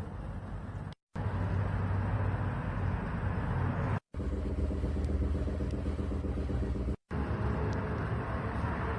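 Kia All New Carnival engine running with a steady low hum, heard in short pieces with abrupt brief dropouts about a second, four seconds and seven seconds in. This is the engine noise being checked for worn engine mounts.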